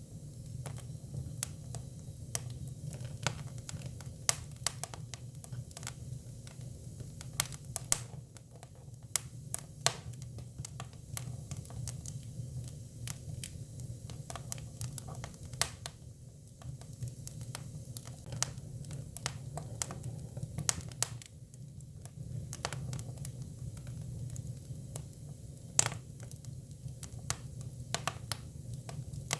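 Hinoki cypress firewood burning, with frequent irregular crackles and sharp pops over a low, steady rumble of the fire.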